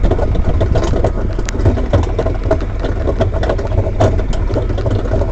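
Tractor engine running steadily while the towed cart rattles and knocks over bumpy ground.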